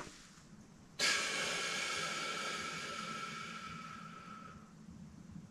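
A sudden metallic, cymbal-like crash about a second in, ringing and fading away over about three and a half seconds.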